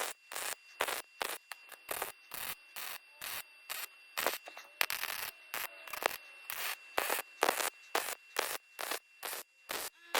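MIG welder running .025 wire, stitch-welding a thin sheet-metal floor-pan patch in short trigger pulses: a quick run of brief crackling bursts, about two or three a second, with short gaps between.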